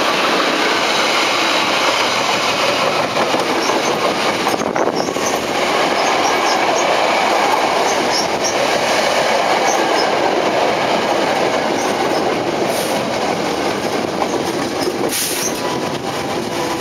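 Electric train running on the track, a steady loud rush of wheel and motor noise with short high squeaks of the wheels scattered through it.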